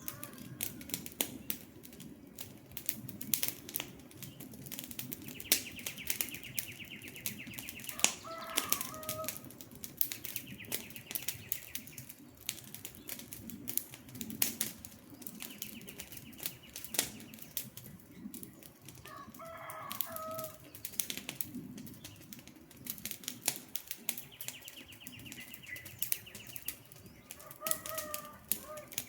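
Campfire logs crackling and popping in quick irregular snaps over a low steady hiss of the flames. A bird calls three times, roughly every ten seconds, and a higher buzzing trill comes and goes three times.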